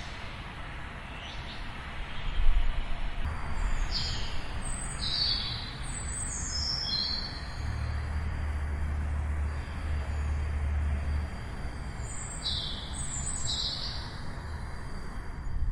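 Small birds chirping: short, high chirps that come in scattered clusters. Under them runs a steady low rumble that swells for a few seconds in the middle.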